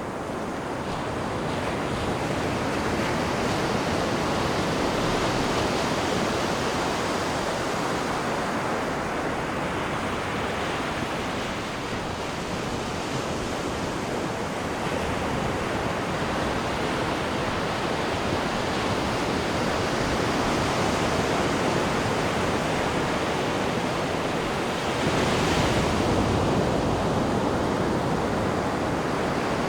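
Water churning and rushing in a cruise ship's wake behind the stern: a steady, dense rush of water that swells briefly about 25 seconds in.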